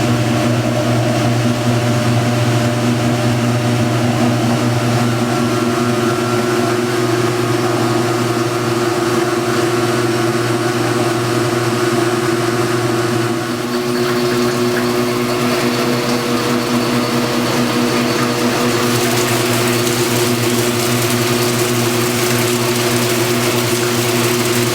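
Huebsch (Speed Queen) commercial washing machine running with a steady motor hum. The tone shifts slightly about halfway through, and a hiss grows in the last several seconds.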